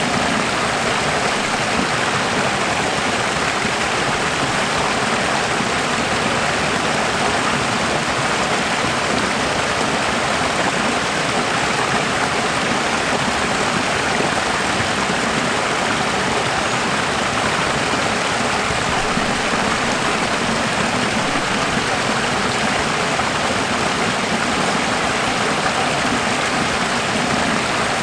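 Running water, a steady stream of flowing water.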